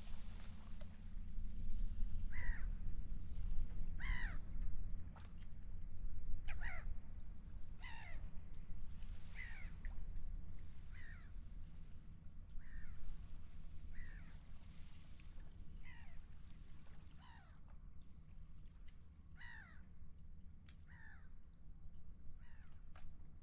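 A seagull calling over and over, short cries each dipping in pitch, about one every second and a half, over a steady low rumble.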